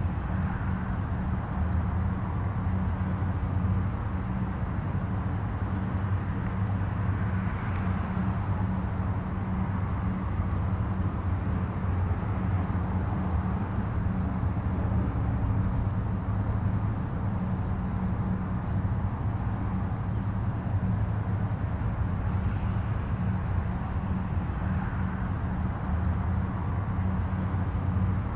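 Distant highway traffic: a steady low rumble of tyres and engines, with soft swells every few seconds as vehicles pass.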